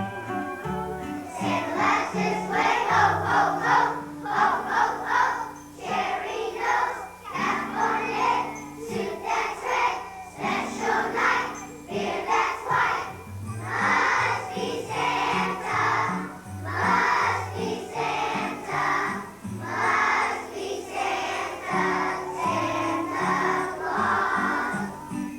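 A children's choir singing a song together over an instrumental accompaniment with a steady bass line.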